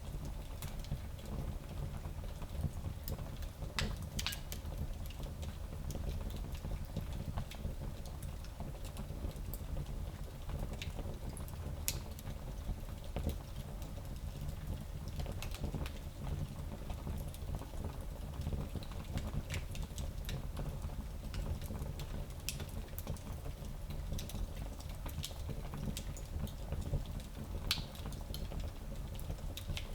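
Wood fire in a small fireplace crackling, with scattered sharp pops over a steady low rumble.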